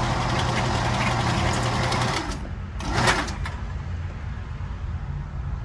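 Steady electric motor hum from a range target carrier running the target back, stopping about two seconds in. About a second later comes one short, loud bang.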